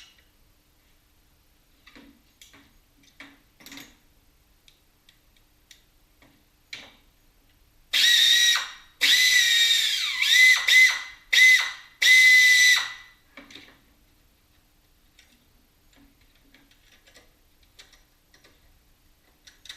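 Power tool spinning up with a high whine in five short runs, one after another, the second sagging in pitch under load before picking up again. A few light tool clicks come before it.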